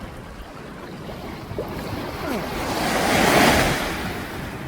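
Sea wave surging in with a rising and falling rush of water that peaks about three seconds in.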